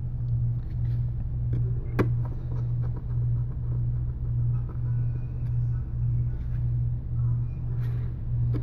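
A steady low hum with a slow, even pulsing, over small sharp clicks of small parts and tools being handled, one louder click about two seconds in.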